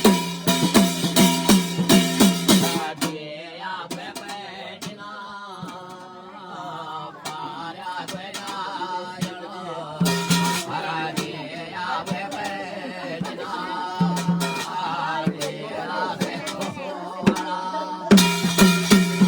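Jagar, a Himalayan ritual devotional song invoking the serpent deity Nag Devta: a voice chants the song over sparse drum strokes. Fast, loud drumming plays for the first three seconds and comes back near the end.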